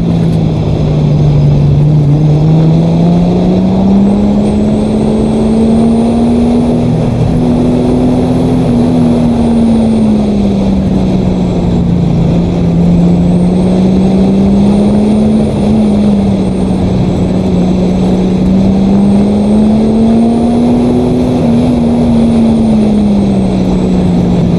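Datsun 280Z's inline-six engine running hard through an autocross run, its revs rising and falling in slow swells several seconds apart.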